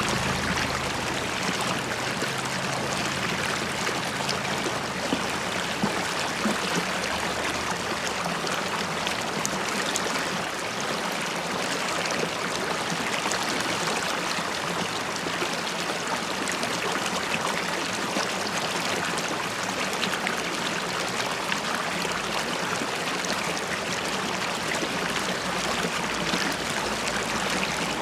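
River water flowing and burbling over stones, a steady babbling stream with small splashes and bubbling throughout.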